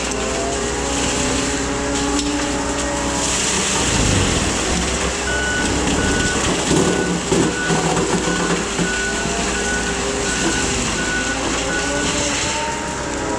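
Case skid steer's diesel engine running with its pitch shifting, and its reversing alarm beeping evenly, about one and a half beeps a second, from about five seconds in until near the end.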